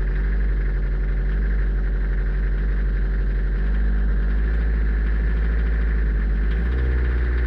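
Toyota Hiace engine idling steadily just after a decoking treatment, with its engine speed shifting slightly twice, about four and six and a half seconds in.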